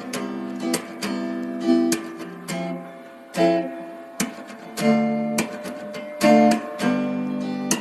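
Acoustic guitar music: plucked and strummed chords, each ringing out and fading before the next.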